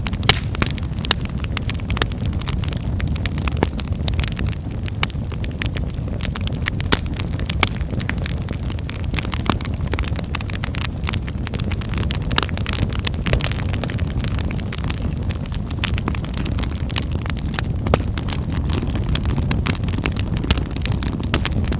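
Wood fire in a fireplace crackling: frequent sharp pops and snaps scattered irregularly over a steady low rumble.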